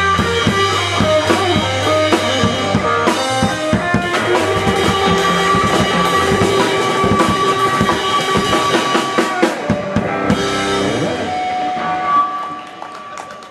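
A band playing an instrumental passage of a blues song: drum kit and bass under held lead notes, dropping off in loudness about twelve seconds in as the song ends.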